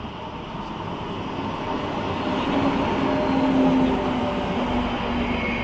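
A DSB passenger train running through the station. It grows louder to a peak about three to four seconds in, then eases slightly, with a steady hum over the rumble.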